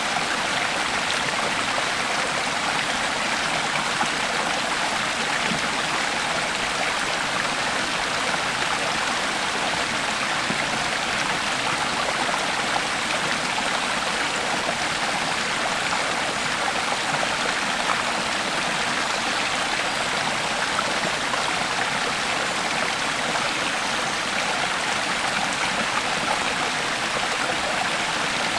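Creek water flowing steadily over rocks, a continuous rushing and babbling.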